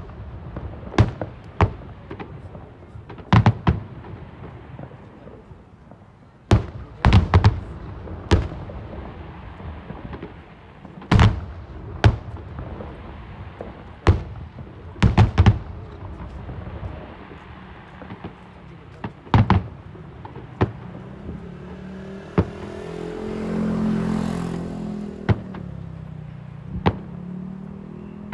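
Fireworks display: about twenty sharp bangs of bursting aerial shells at irregular intervals, some in quick pairs and clusters. From about two-thirds through, a low humming sound swells and then fades.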